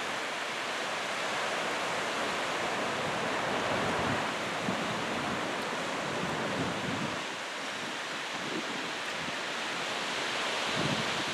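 Surf breaking steadily on a beach, the waves raised by an approaching typhoon, with wind buffeting the microphone in low gusts now and then.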